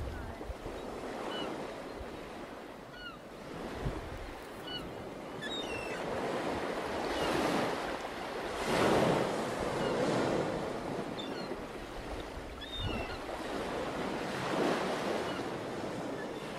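Ocean surf: waves breaking and washing up the beach as a steady rushing noise that swells louder several times, most strongly around the middle.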